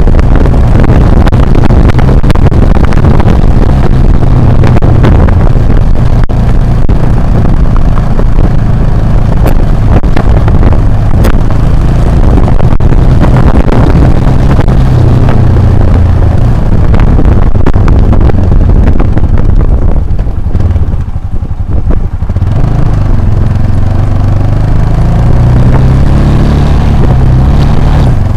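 Motorcycle engine running at speed off-road, heard very loud from an action camera riding along. Its note drops away about twenty seconds in, then rises again as it picks up.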